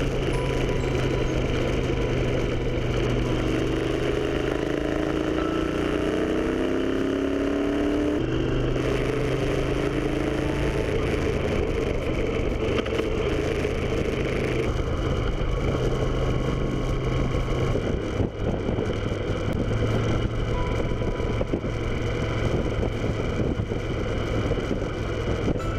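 Moto Guzzi Griso motorcycle engine running under way over a steady rush of noise. About three seconds in, its note climbs as it accelerates, then drops about eight seconds in, as at a gear change.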